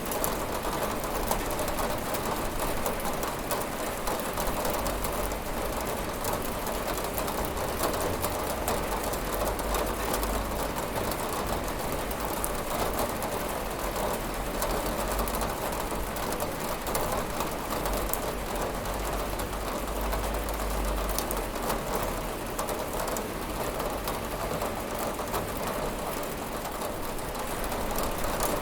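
Steady rain falling on a window: a dense patter of drops over an even hiss, with a low rumble that comes and goes underneath.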